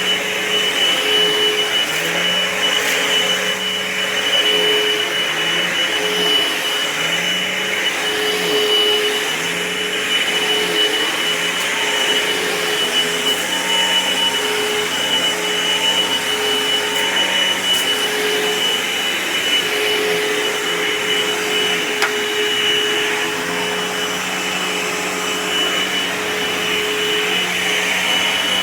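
Dirt Devil Envision Turbo upright vacuum cleaner running loudly while pushed over carpet. A steady high whine sits over a lower hum that wavers about once a second.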